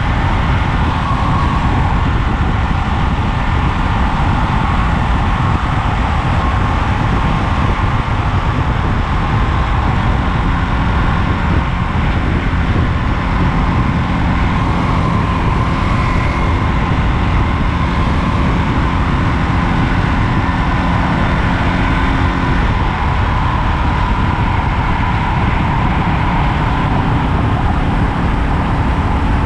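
Ducati Monster 937's L-twin engine running steadily at road speed, under a constant rush of wind noise on the microphone.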